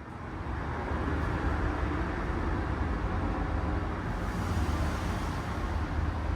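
Steady rushing roar of a waterfall soundtrack with a deep low rumble, played through the speakers of an immersive waterfall projection room. It swells up over the first half second, then holds steady.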